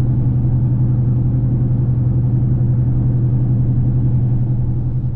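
Cab interior of a 2013 Roush F-150 cruising steadily at 40 mph in 5th gear. The engine and exhaust run at a steady low drone over road rumble. The exhaust has its catalytic converters removed and runs into a MagnaFlow muffler.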